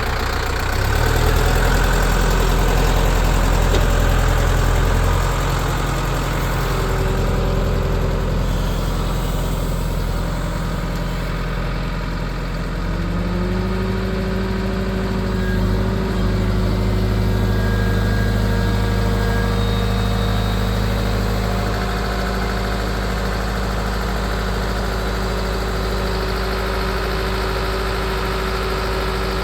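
Diesel engine of a tractor or backhoe loader running steadily, its speed stepping up about a second in and again around halfway through, then holding.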